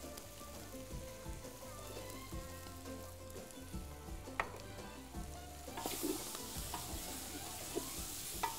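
Chopped vegetables and tomato paste frying in a large aluminium pot as they are stirred with a wooden spoon. The sizzle grows louder about six seconds in, and there are a couple of sharp knocks.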